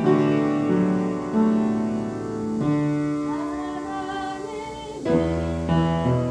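Piano playing slow, sustained chords, with a voice singing a held, wavering melody through the middle and a new low chord struck about five seconds in.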